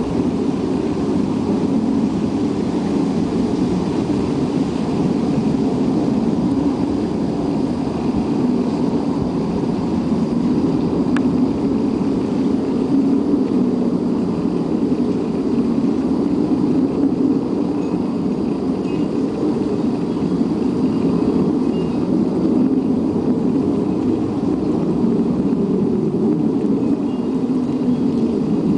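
A steady, low rumbling drone that swells and eases a little without ever stopping, with no identifiable source.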